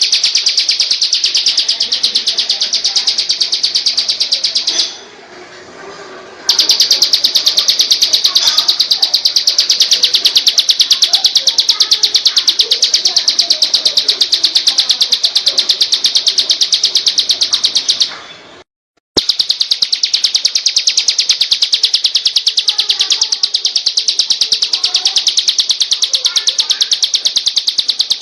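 A songbird's fast, even train of high-pitched chirps, repeating without pause. This is a tutoring (masteran) recording for teaching caged songbirds. It is interrupted briefly at about five seconds and again with a second-long break at about eighteen seconds.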